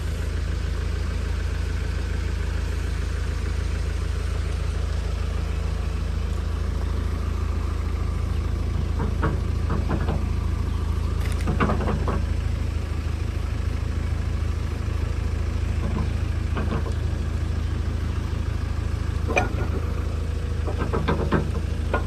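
JCB 3DX backhoe loader's diesel engine idling steadily, with a few clusters of short sharp clanks and knocks over it about halfway through and near the end.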